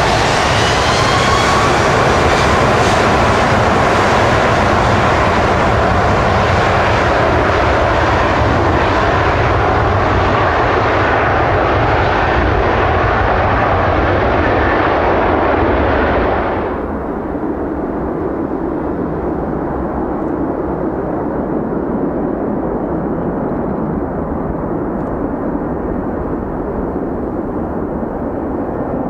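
Boeing 777-200ER's twin turbofan jet engines at takeoff power, with a rising whine over a loud rumble. About two-thirds of the way through, the high-pitched part cuts off suddenly, leaving a duller, slightly quieter rumble.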